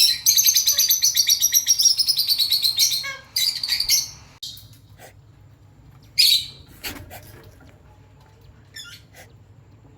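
White cockatiel chirping: a rapid run of high chirps, about seven a second, for the first three seconds, a shorter burst about half a second later, then a few separate single calls spaced over the rest.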